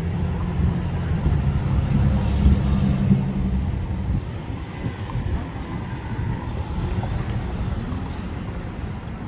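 A motor vehicle's engine running close by, a steady low hum that fades away about four seconds in, leaving street traffic noise.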